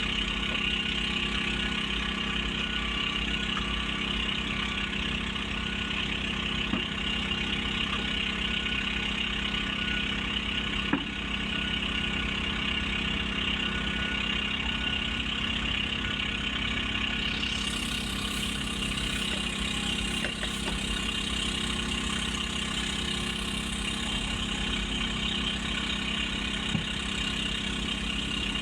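Diesel engines of heavy construction machinery such as excavators and loaders running steadily at a low, even pitch. A single sharp tick comes about 11 seconds in, and a higher hiss joins a little past halfway.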